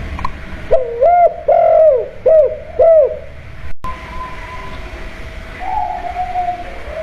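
Spotted dove (tekukur) cooing: a quick phrase of about five short arched coos, then a softer, longer coo near the end.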